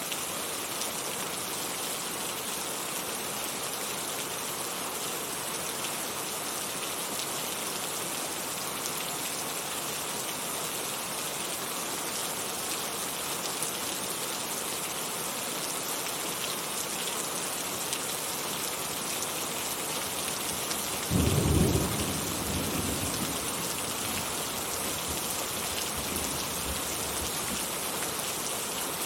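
Heavy rain falling steadily. About two-thirds of the way through, one loud, low clap of thunder rumbles and fades over a few seconds.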